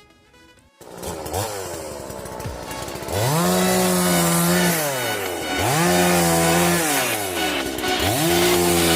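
Two-stroke chainsaw coming in about a second in and running low, then throttled up three times, each high-revving burst held about a second and a half before the engine drops back down.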